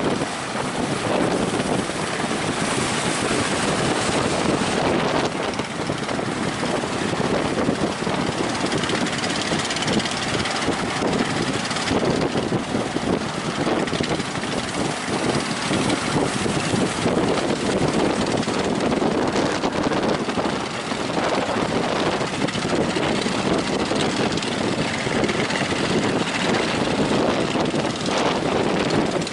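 Strong wind blasting across the microphone, mixed with the rush of heavy surf, a steady loud roar that swells and eases with the gusts.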